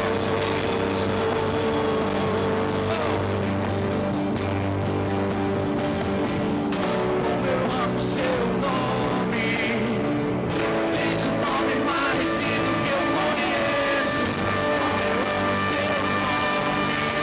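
Live worship music: slow sustained chords held steady, with some melodic lines gliding above them.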